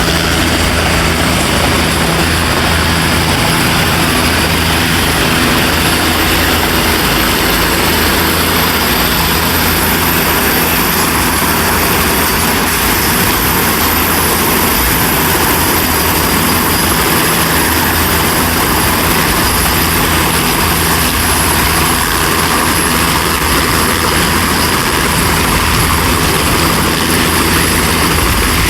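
Turbine helicopter running steadily at a helipad, a continuous rotor and engine noise with a thin, high, steady turbine whine over it.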